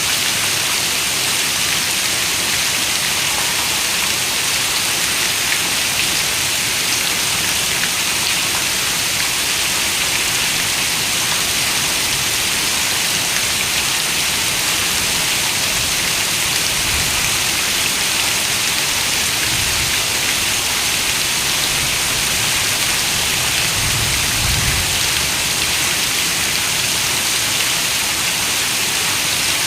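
Steady rain falling on a window: a dense, even hiss of drops. A few faint low rumbles come in the second half.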